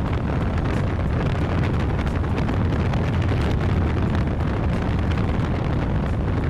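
Steady wind buffeting the microphone over the low drone of a Yamaha FZ V2's single-cylinder engine cruising at speed.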